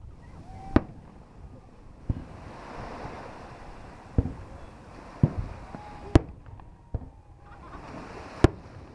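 Fireworks going off: about seven sharp bangs at irregular intervals, over a steady wash of noise.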